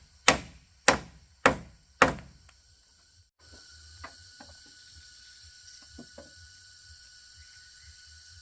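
Four loud, evenly spaced strikes on wood, a little over half a second apart, each ringing briefly. About halfway through, the sound cuts to a quiet steady background with a few faint taps.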